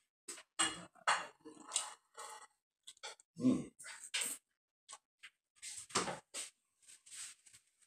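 Close-up eating sounds: chewing and lip smacking on fried chicken legs, a string of short irregular smacks and chews with brief gaps between them.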